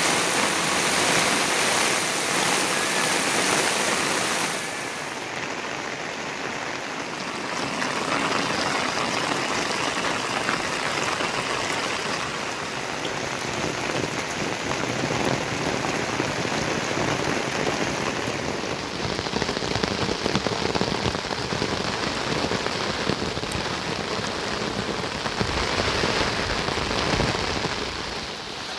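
Heavy rain falling on surfaces, a steady hiss. About four and a half seconds in the sound turns duller as its brightest top end drops away.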